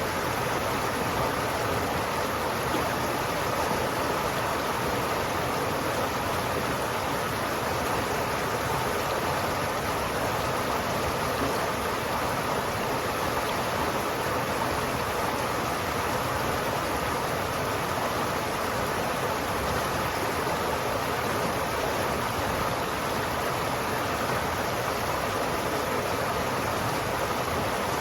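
River water flowing in a steady, continuous rush, even throughout with no separate splashes or breaks.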